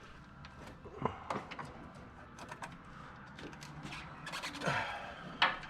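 Hand tools and parts being handled during work on a van's front end: scattered clicks and scraping, with a sharp clank near the end.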